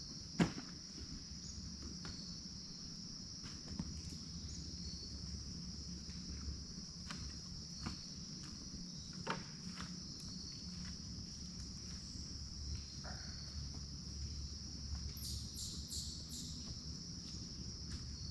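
Steady high-pitched chorus of crickets or other insects, with scattered short clicks and knocks through it and a quick run of high ticks near the end.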